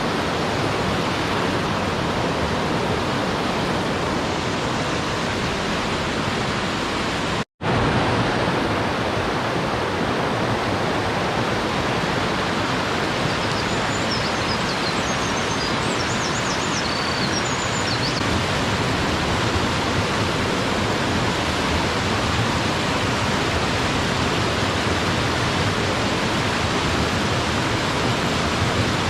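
Steady rushing of a mountain stream, cut off for a split second about seven and a half seconds in.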